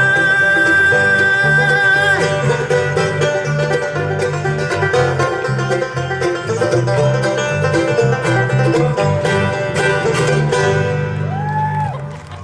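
Live bluegrass band music: a long held note, then a fast picked banjo and guitar passage that winds down near the end as the song finishes.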